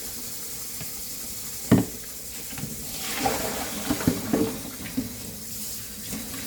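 Kitchen tap running into a sink while pig feet are washed, with a sharp knock under two seconds in and a run of smaller knocks and clatters in the middle.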